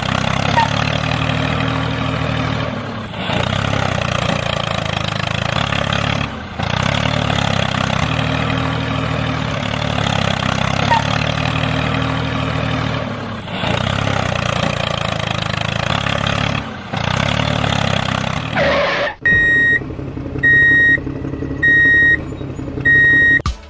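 Heavy truck diesel engine running, dubbed onto a miniature model truck, in several stretches of a few seconds with short breaks between them. Near the end it gives way to four loud, high electronic beeps, a little over a second apart.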